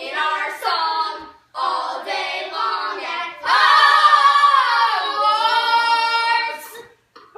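A child singing in a high voice: a few short phrases, then louder, long-held notes from about halfway that slide down in pitch and stop shortly before the end.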